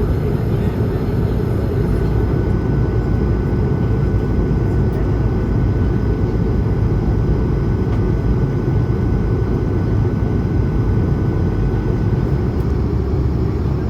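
Steady cabin noise inside an Airbus A220-300: a deep, even rumble of its Pratt & Whitney PW1500G turbofans and the airflow, with a faint steady whine on top.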